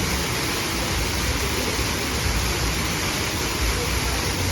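Fountain water jets spraying and splashing down into a pool, a steady rush of water.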